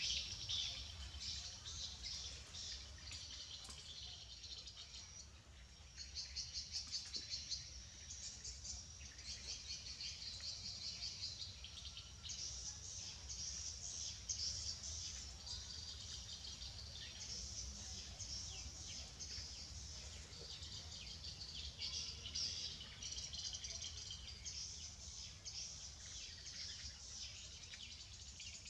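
Small birds chirping and twittering continuously in quick, repeated high trills, over a steady low hum.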